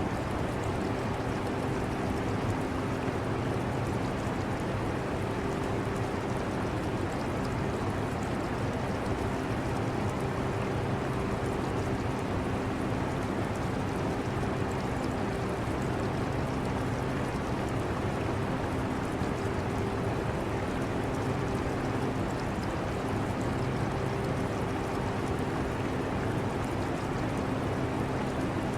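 Portable air conditioner running with a steady low hum and an even rush of air, mixed with the trickling water of an aquarium filter.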